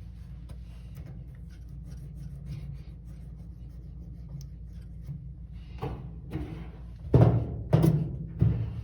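Light clicks and scrapes of metal dryer parts being handled, then five heavy knocks in the last three seconds, over a steady low hum.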